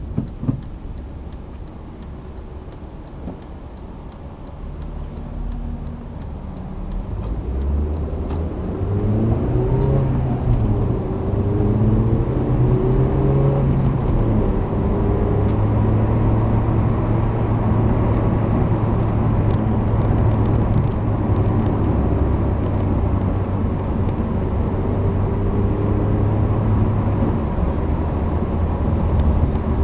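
Honda Civic's four-cylinder engine and road noise heard from inside the cabin: quiet at first, then the engine pulls harder with its pitch rising and stepping at gear changes, and settles into a steady cruise about halfway through.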